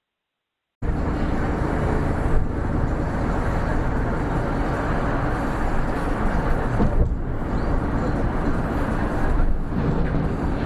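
Steady vehicle driving noise, a low engine and road rumble as picked up by a dashcam, cutting in abruptly just under a second in after dead silence.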